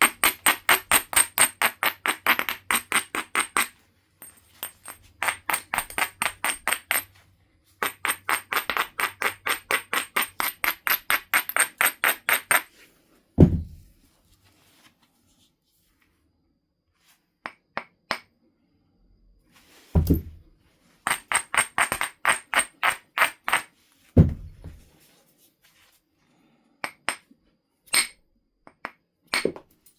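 Flint being knapped: bursts of rapid scraping strokes, about five a second, typical of an abrader grinding the edge to prepare striking platforms. Three single heavy percussion blows with a billet land about halfway through, around two-thirds of the way and a few seconds later, each with a deep thump. Light clicks of stone follow near the end.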